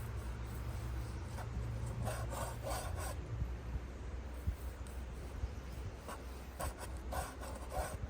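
Repeated rasping scrapes, in two short runs of a few strokes each, over a steady low hum.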